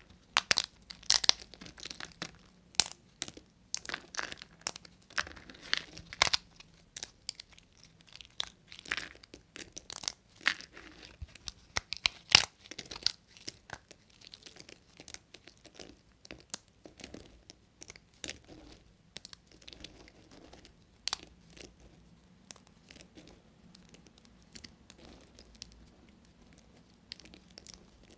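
Bar soap being cut with a knife: crisp crunching and crackling snaps, dense and sharp for the first half, then sparser and softer.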